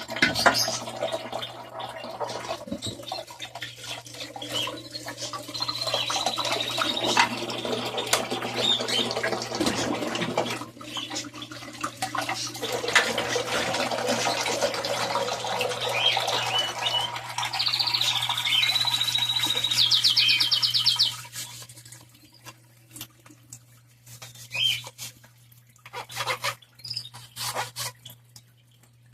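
Water running and splashing while a washing machine tub is rinsed and scrubbed, with small birds chirping and a rapid high trill over it. About twenty seconds in the water stops, leaving scattered clicks and bird chirps.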